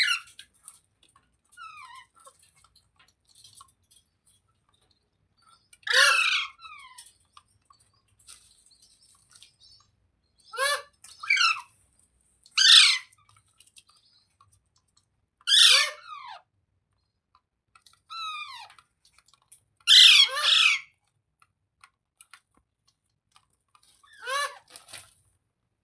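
A parrot giving loud, harsh screeching calls, each one falling in pitch, about eight of them spaced a few seconds apart, two of them in a quick pair.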